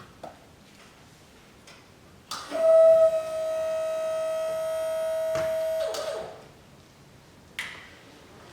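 Electric pallet truck giving off a steady high tone for about four seconds, starting a couple of seconds in and cutting off near the end, with a few faint clicks before and after.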